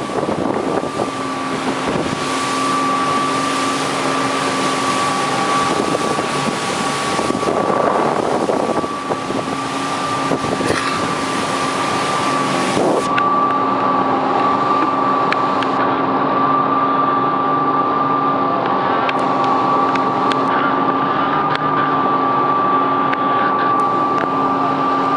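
Motorboat engine running steadily under way, with a constant high whine over the engine's hum and a rushing noise of wind on the microphone.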